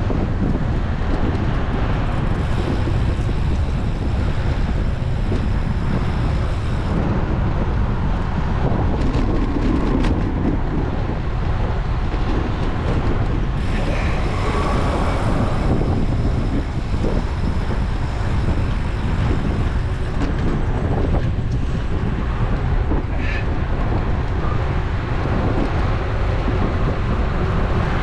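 Wind buffeting an action camera's microphone on a moving road bike, a steady heavy rumble, with road traffic noise underneath.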